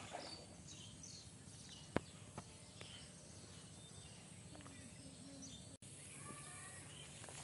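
Faint rural background with small birds chirping now and then, and a sharp click about two seconds in followed by two softer ones.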